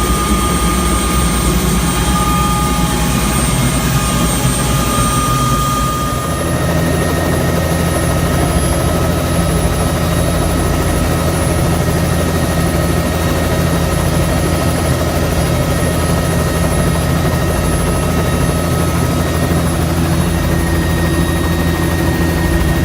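Helicopter running steadily, its engine and rotor sound continuous. About six seconds in, the high whining tones drop away and a deeper, steady rumble takes over.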